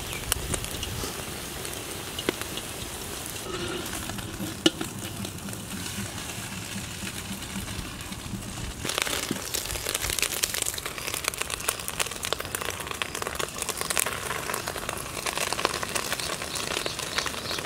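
Scrambled eggs sizzling in a large black iron wok, with a long metal spatula scraping and clinking against the pan. There is a sharp clank about four and a half seconds in, and the sizzling and scraping grow louder about halfway through.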